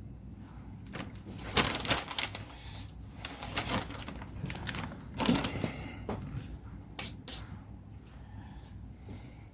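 Rustling, scraping and light clicks of hands handling tubs and bags of model scenery scatter and foliage material, in irregular bursts, loudest about two seconds in and again past the middle. A low steady hum runs underneath.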